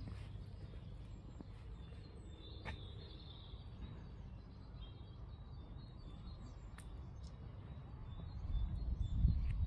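Birds chirping with short, high calls over a steady low outdoor rumble that swells briefly near the end, with a couple of sharp clicks.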